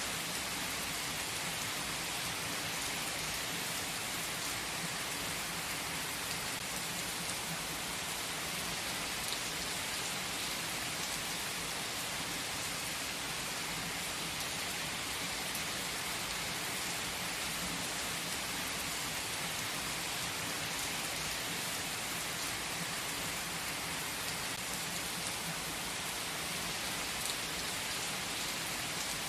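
Steady rain, an even hiss with no breaks or changes in level.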